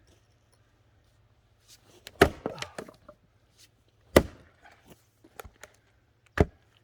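Axe striking a log three times while splitting firewood, each blow a sharp crack about two seconds apart. The first blow is followed by a short clatter of smaller knocks.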